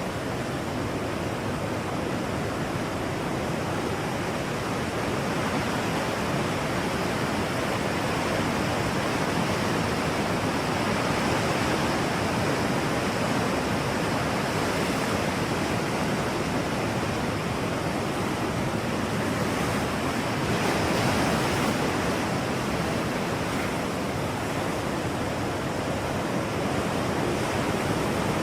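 Steady rushing natural ambience, a continuous noise like wind or surf with no distinct events, swelling slightly in level around the middle and again a little past two-thirds of the way.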